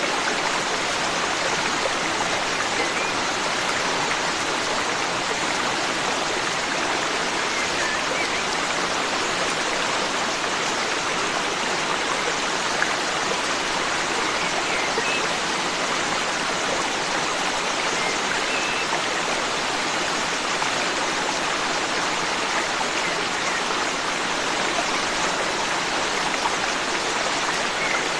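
Forest stream flowing, a steady even rush of water. A few faint short bird chirps come through it here and there.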